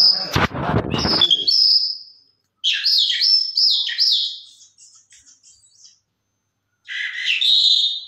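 Small caged birds chirping: runs of quick, high chirps that fall in pitch, then a gap, then a shrill call near the end. A loud low rustle of handling noise fills the first second.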